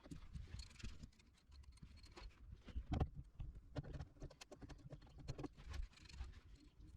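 Faint, irregular small clicks, taps and knocks of hand tools being handled while a rivet nut is set with a hand rivet nut tool. The loudest knock comes about three seconds in.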